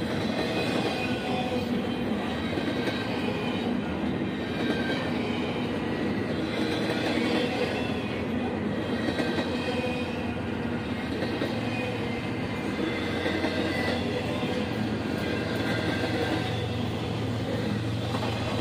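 A CSX double-stack intermodal freight train rolling past close by: a steady rumble of wheels on rail, with thin high-pitched wheel squeal over it. In the last several seconds a low diesel drone grows in as a CSX locomotive in the train approaches.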